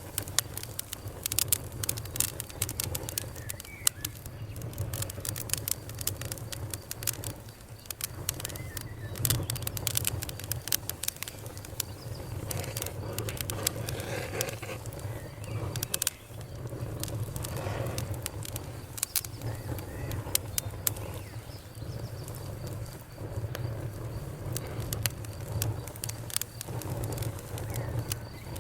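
Fire crackling, with frequent sharp snaps and pops over a steady low rumble.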